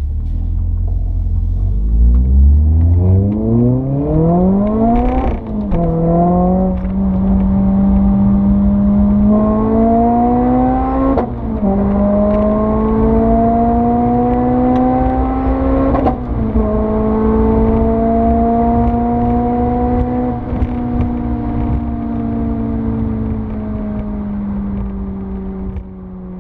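Renault Clio 3 RS's 2.0-litre four-cylinder engine, breathing through an Akrapovic Evolution exhaust line, accelerating hard through the gears. The revs climb steeply, then drop at three upshifts about 5, 11 and 16 seconds in, with a sharp pop at each change. After the last shift it holds and slowly falls away.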